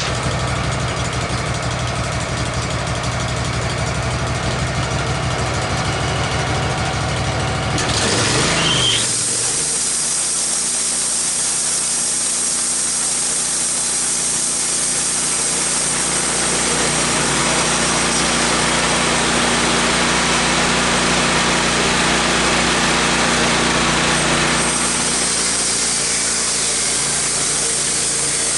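Wood-Mizer LT15 sawmill engine idling, then speeding up about eight seconds in. The band saw blade then runs on and cuts through a white ash log: a steady loud hiss of sawing over the engine.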